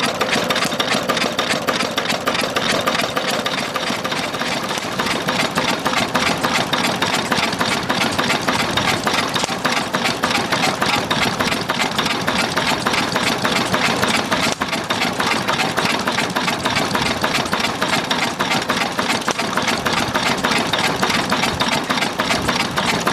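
Ruston & Hornsby 1XHR single-cylinder open crank diesel engine running steadily, with an even, rapid clatter.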